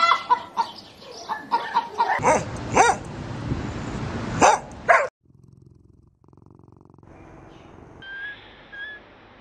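A dog barking amid clucking chickens, with several sharp calls. About five seconds in the sound cuts off suddenly, followed by a quieter stretch with a few short, high chirps near the end.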